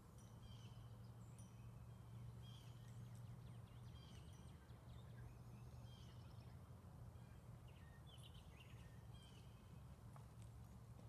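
Faint birds chirping and trilling, short calls repeating over a steady low rumble of background noise.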